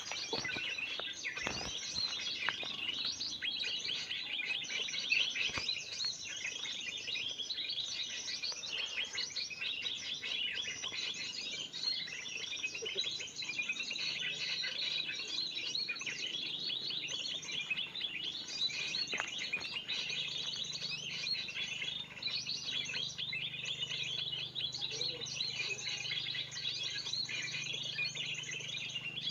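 Dense, unbroken chattering and twittering of many small birds calling at once, the mixed 'burung ribut' lure call used to draw in birds such as spiderhunters.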